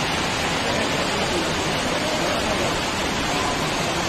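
Steady rushing hiss of a heavy downpour with floodwater running across a city street.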